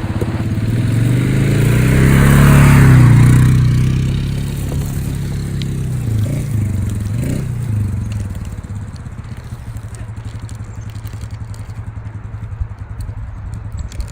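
An engine running, getting louder to a peak about three seconds in, then shifting in pitch and settling into a steadier, quieter run.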